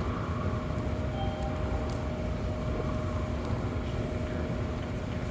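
Subway train running: a steady low rumble with a steady whine held over it.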